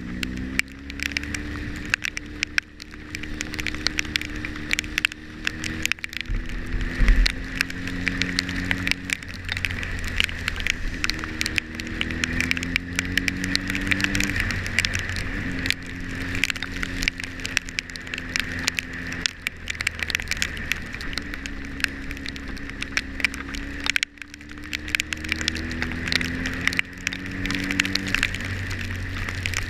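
Motorcycle engine running on the move, its pitch climbing and levelling off several times as it pulls up through the gears. Dense crackling of rain hitting the camera runs throughout, with one heavy low thump about seven seconds in.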